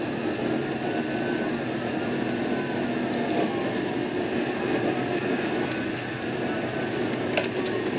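Police car siren wailing, rising and falling every couple of seconds, over the steady road and wind noise of the patrol car at high speed. A few short clicks near the end.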